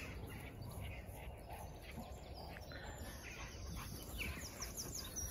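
Steady outdoor background noise with a small bird chirping: short high notes that come as a quick run of about five chirps near the end.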